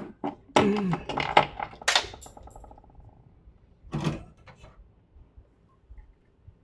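Tools and parts being handled: a quick run of sharp clicks and clatters in the first two seconds, with a short ringing buzz trailing off after them, then one more knock about four seconds in.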